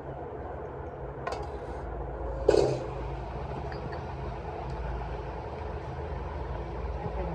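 Steady low engine rumble, with two metallic clanks: a light one after about a second and a louder, briefly ringing one about two and a half seconds in.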